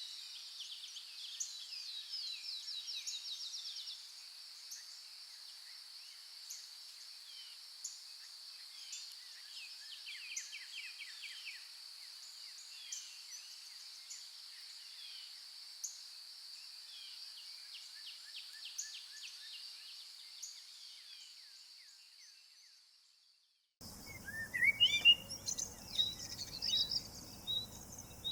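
Woodland birds chirping and trilling, with repeated quick trills, over a steady high-pitched drone. The sound fades out a little after twenty seconds, is silent for a moment, then cuts abruptly to louder, closer bird calls.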